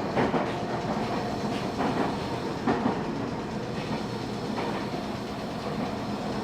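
Train running along the track: a steady rumble with irregular clicks of the wheels over the rail joints.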